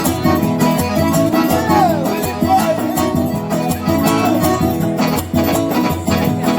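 Forró band playing an instrumental passage between verses, with a steady percussion beat under a melody line that slides in pitch about two seconds in.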